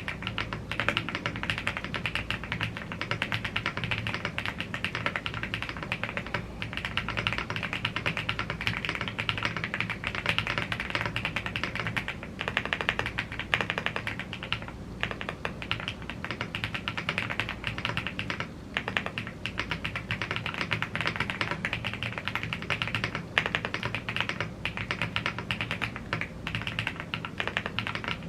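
Continuous fast typing on a YUNZII AL75 gasket-mounted CNC aluminium mechanical keyboard with Blue Grey tactile switches and double-shot PBT keycaps: a dense run of keystroke clacks, thinning briefly a couple of times about halfway through.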